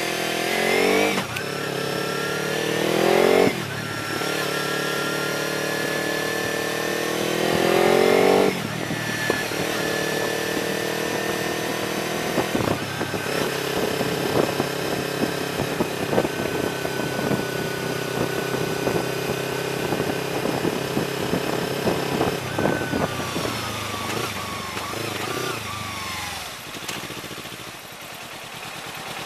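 Kawasaki Ninja 300's parallel-twin engine accelerating through the gears: the revs climb three times, dropping suddenly at each upshift. The engine then holds a steady cruise before the revs fall away as the bike slows, ending low near idle.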